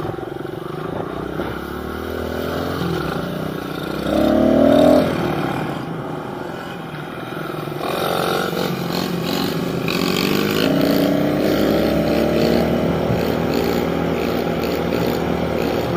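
Pit bike engine running while riding, its pitch rising and falling as the throttle is worked, with a louder rev about four seconds in and a long climb in pitch in the second half.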